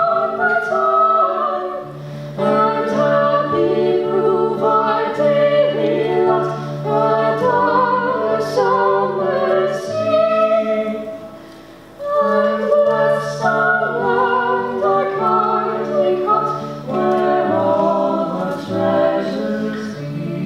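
Small ensemble singing a slow song with vibrato over held low accompaniment notes. The music thins out briefly about eleven seconds in, then picks up with the next phrase.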